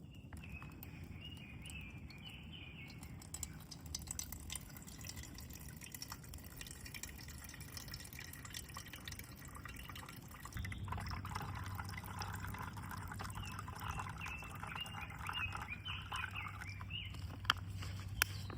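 Water sounds from campfire cooking: liquid trickling and dripping, growing louder a little past halfway, with scattered sharp clicks.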